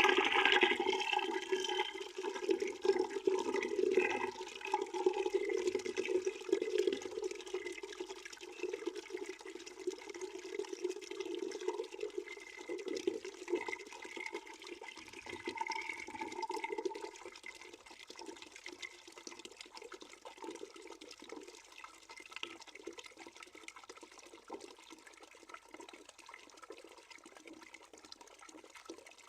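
Water pouring into a bucket, a steady splashing rush that gradually weakens. About seventeen seconds in it eases off to a quieter, lighter trickling.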